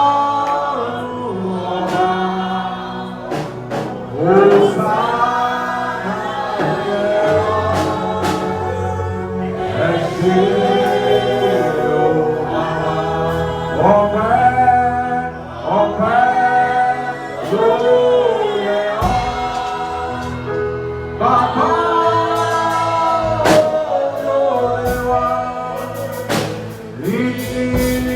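Gospel singing with music: voices holding and bending sung lines over a steady low instrumental accompaniment.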